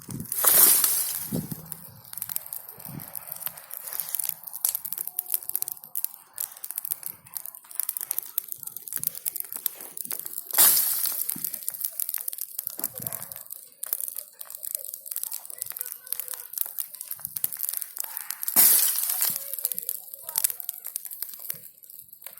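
Bonfire of branches crackling and popping with many sharp snaps, with three louder rushing surges that each fade over a couple of seconds.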